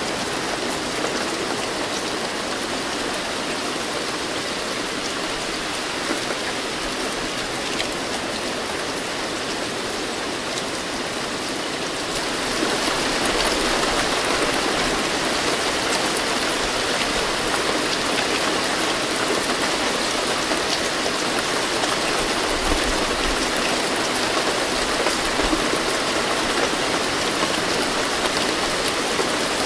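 Steady rain falling, a dense even patter that becomes louder and heavier about twelve seconds in.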